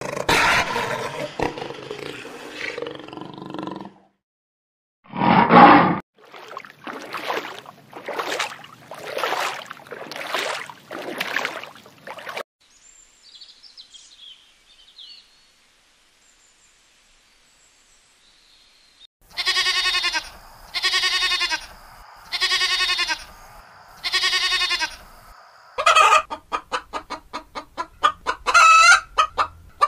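A run of different animal calls played one after another, with gaps between them. It ends with a hen clucking in fast, short pulses.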